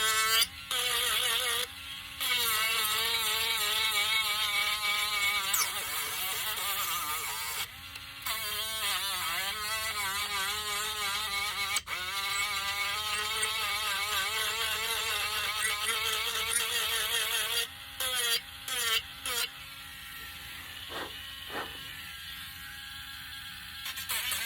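Small electric sanding tool running, its whine wavering in pitch as it is pressed against the wood, switching off or easing off briefly a few times and going quieter near the end. It is smoothing burrs off carved wooden pieces.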